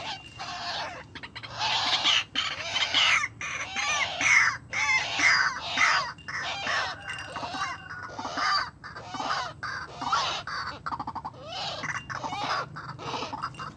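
White-breasted waterhens calling: a continuous run of rapid, overlapping calls made of short gliding notes, loud throughout.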